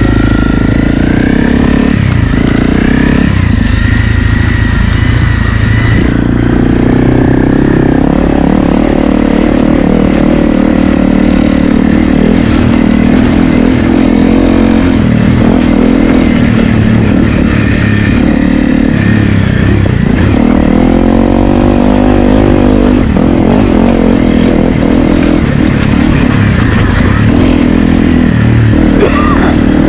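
Honda CRF250L's 250 cc single-cylinder four-stroke engine running under load as the trail bike is ridden off-road, the revs rising and falling with throttle and gear changes.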